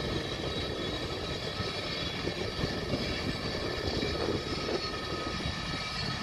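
Steady rumble of a freight train's diesel locomotives and cars rolling across an elevated flyover, mixed with the noise of jet aircraft. A few faint steady whining tones sit above the rumble.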